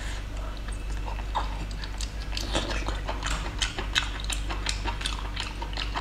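Close-up chewing of seafood with wet mouth smacks and clicks, coming thick and fast from about two seconds in, over a steady low hum.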